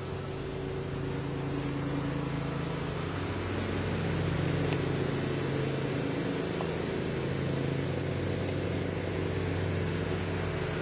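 An engine running steadily at an even speed, with a constant high-pitched insect buzz behind it.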